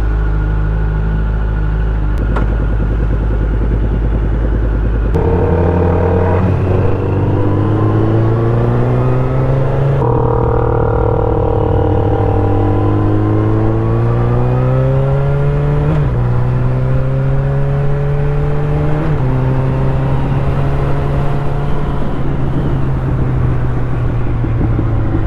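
Motorcycle engine heard from the rider's helmet camera. It runs evenly at first, then about five seconds in it starts pulling harder, climbing in pitch and dropping back at each of three upshifts, before settling into a steady cruise near the end.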